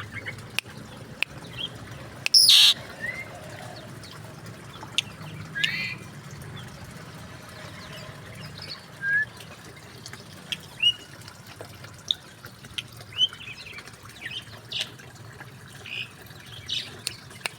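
Mixed aviary birds calling: scattered short chirps and squeaky whistled notes, with one loud harsh squawk about two and a half seconds in.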